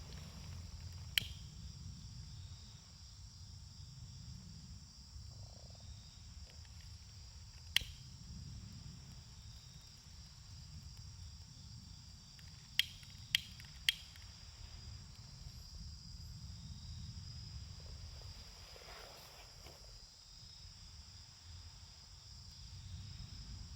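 Wood campfire burning with five sharp pops of crackling wood (one about a second in, one near eight seconds, and a quick cluster of three around thirteen to fourteen seconds) over a low rumble, with a steady high-pitched chirring of insects behind.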